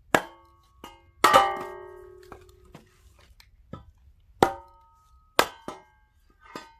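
Hammer striking a metal splitting axe head set into a firewood log. About four loud clangs that ring on after each blow, with lighter knocks between.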